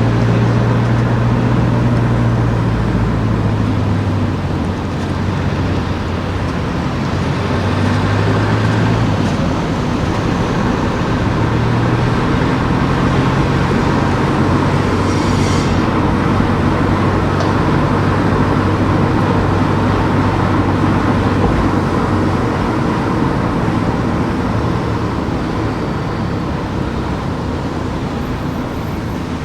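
Car driving along town streets: steady engine hum and road noise, the engine note shifting up and down with speed.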